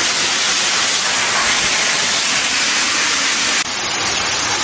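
Waterfall rushing: a loud, steady roar of falling water. About three and a half seconds in it changes abruptly to a slightly quieter, duller rush of the same kind.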